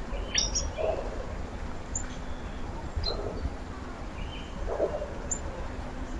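Small birds at a feeder giving short, high chirps here and there, with soft lower calls roughly every two seconds, over a steady low outdoor rumble.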